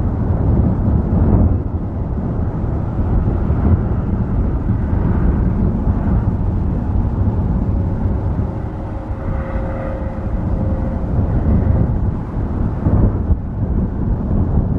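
Airbus A330neo's Rolls-Royce Trent 7000 jet engines at takeoff power, a loud steady rumble. A faint whine rises out of it about eight seconds in and fades a few seconds later.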